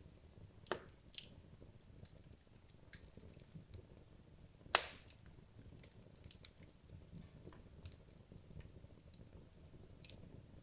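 Wood logs burning in a fireplace: a low, soft rumble of flame with scattered sharp crackles and pops, the loudest single pop about five seconds in.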